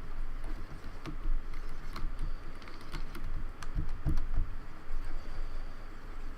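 Keys of a Logitech K360 keyboard clicking irregularly as they are pressed and worked, with a few dull thumps from handling the keyboard about four seconds in.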